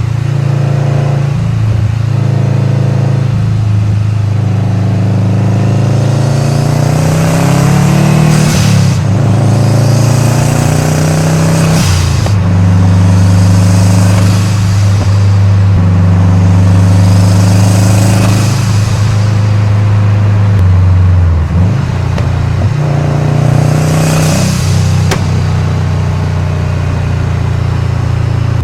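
2013 Subaru WRX's turbocharged 2.5-litre flat-four engine accelerating through the gears. Its pitch climbs and then falls sharply at each of several upshifts, with a short hiss of air at some of the shifts.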